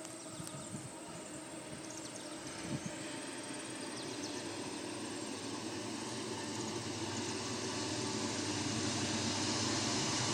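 Freight train with diesel-electric locomotives approaching: a steady engine drone and rail rumble that grows slowly louder.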